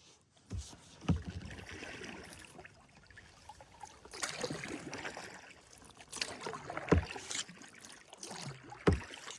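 Kayak paddling: paddle blades swishing and splashing through the water, broken by a few sharp knocks, about a second in, around seven seconds in and near the end.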